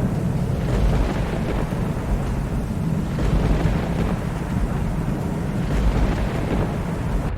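Thunderstorm recording: low rolling thunder rumbling continuously over steady rain, swelling and easing without any sharp crack, and cutting out for an instant near the end.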